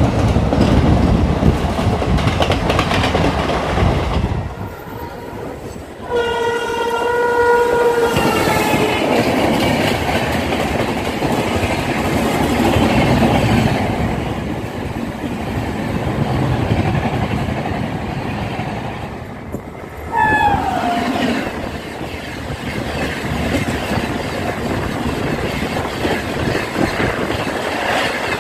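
Loud rumble and clatter of express trains passing on the adjacent track, heard from the open door of a moving train. An electric locomotive horn sounds twice: a long held blast about six seconds in that sags in pitch at its end, and a short blast about twenty seconds in whose pitch falls as it goes by.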